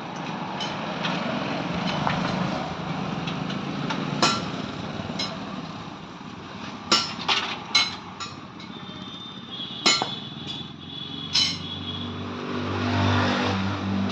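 Metal tools knocking and clinking on a tractor wheel, about six sharp strikes spread through, over the steady running of a vehicle engine.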